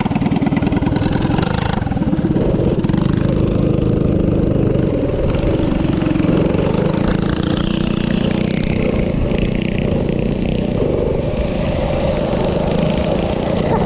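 Minibike's small engine running while being ridden, its pitch rising and falling with the throttle.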